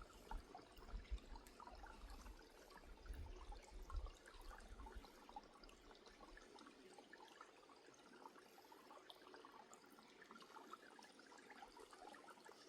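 Faint running water, a soft steady trickle and splash, with a few low thuds in the first five seconds.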